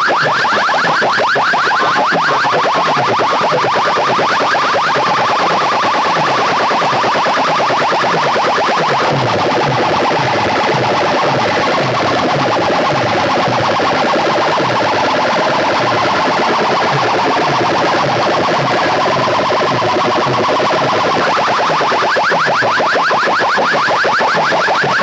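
Siren-like electronic competition sound effect played loud through a DJ sound system's speaker stacks, pulsing rapidly many times a second over repeated falling bass strokes.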